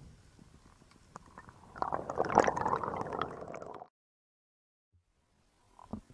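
Underwater gurgling and crackling like a rush of bubbles, lasting about two seconds and cutting off abruptly, after a single thump at the start.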